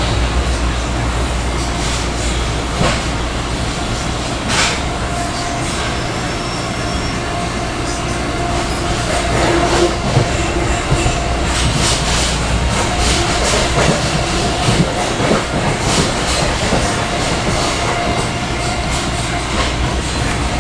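A train running: a steady low rumble with scattered clicks and a thin, high squeal that comes and goes.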